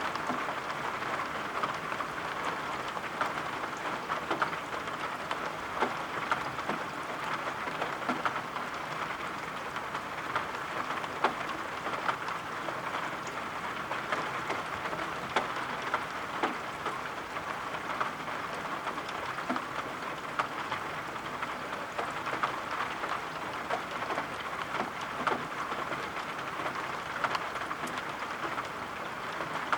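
Steady rain falling, with scattered sharp ticks and clicks at irregular intervals over the even hiss.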